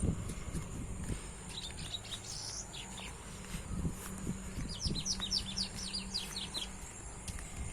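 Small birds chirping in short series of quick falling notes, with a run of about eight rapid notes around the middle. A faint steady high-pitched whine and scattered soft low knocks lie underneath.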